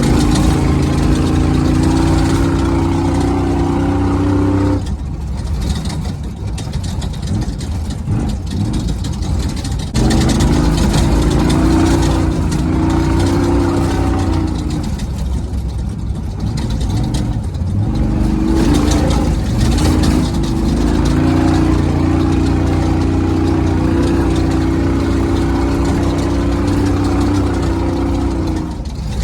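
Race truck engine running hard at a steady pitch, easing off about five seconds in, pulling again around ten seconds, dipping briefly near the middle, then holding steady until just before the end.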